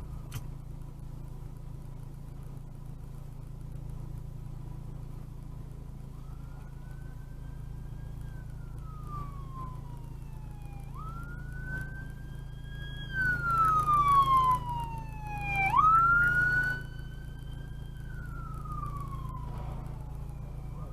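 Emergency vehicle siren wailing in slow rises and falls, each cycle taking about five seconds, starting about a quarter of the way in, over a car's steady engine and road drone. Two louder rushes of noise come in the middle as the siren gets closest.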